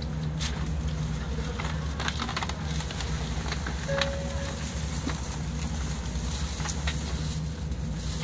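Steady low hum of a stationary train standing at a station, with a short steady beep recurring about every five seconds and a few faint clicks.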